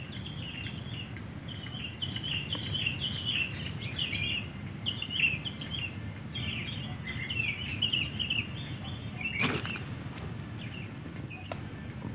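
Small birds chirping in quick, irregular twittering phrases over a low steady background noise, with a sharp click about nine and a half seconds in.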